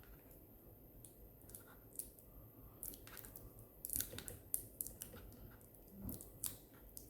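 Sticky tape being peeled off the plastic body of a handheld cordless vacuum cleaner: faint, irregular crinkling and small plastic clicks as it is handled.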